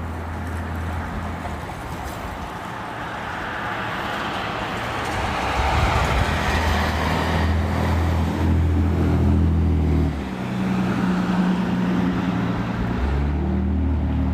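Road traffic: a motor vehicle engine running, its pitch shifting a couple of times, with the tyre noise of passing cars swelling and fading about halfway through.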